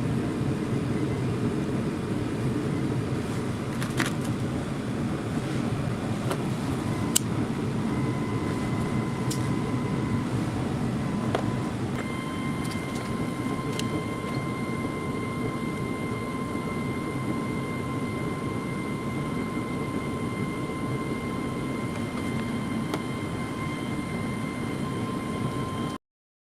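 Steady machine noise, a dense low rush, with a thin whine that comes in about eight seconds in and grows stronger a few seconds later, and a few light clicks; it cuts off abruptly near the end.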